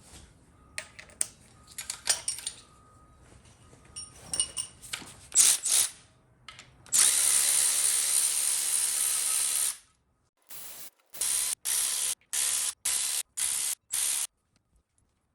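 Power tool with a 3/8 socket spinning out an engine's timing cover bolts: a few metal clinks of the socket and tools, then one steady whirring run of about three seconds, then a string of about six short runs that stop abruptly.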